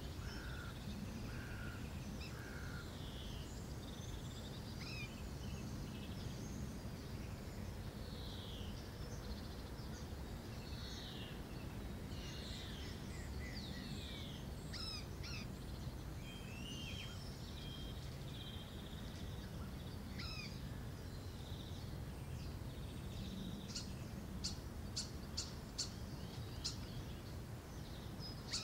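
Small birds chirping and calling, short whistled notes and glides over a steady low rumble of background noise, with a quick run of sharp ticks near the end.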